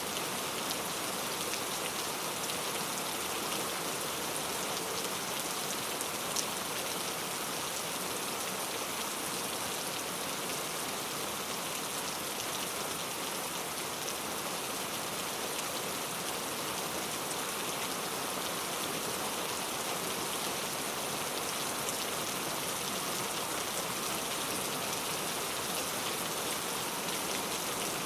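Heavy, steady rain falling, a dense even hiss of drops with one slightly louder drop tick about six seconds in.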